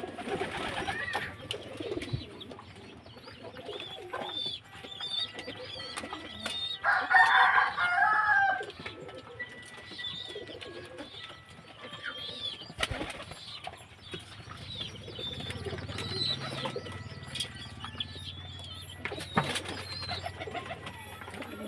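Young domestic pigeons, nearly grown, cooing, with short high chirps scattered throughout and a louder stretch of calling about seven seconds in.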